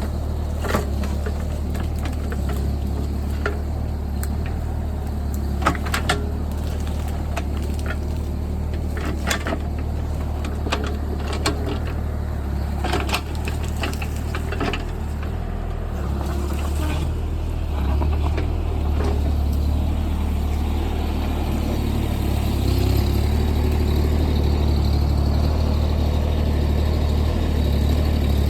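JCB JS30 Plus mini excavator's diesel engine running steadily, with scattered sharp knocks and clanks from the machine at work in the first half. The engine note rises twice in the second half as it takes more load.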